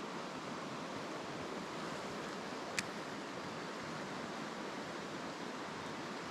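Mountain stream water rushing in a steady, even hiss. A single sharp click a little under three seconds in.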